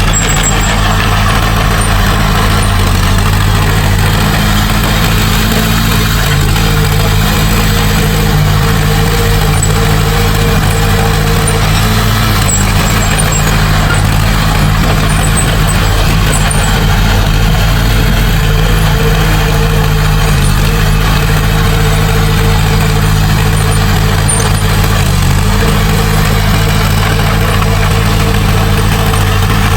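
Heavy diesel engine of earthmoving machinery running steadily and loudly under work, its low pitch shifting slightly a few times.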